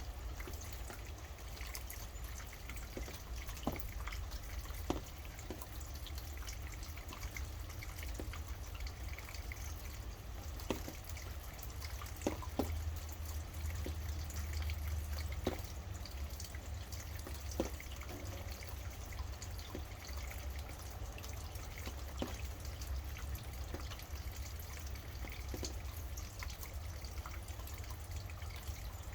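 Steady rainfall with single heavy drops dripping now and then, over a low steady rumble.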